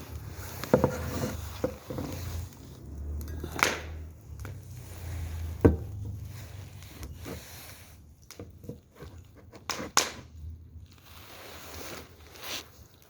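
Firewood fire crackling, with irregular sharp pops and snaps from the burning logs over a low rumble.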